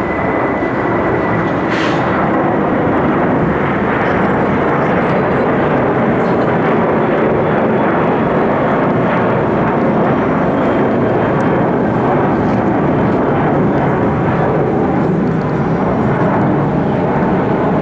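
Boeing 737-600's CFM56-7 turbofan jet engines at takeoff thrust, loud and steady throughout. A faint high whine fades out within the first two seconds.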